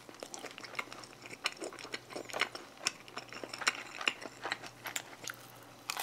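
Close-miked chewing of pizza with a grain dough crust: a run of short, irregular crunchy clicks, a few each second.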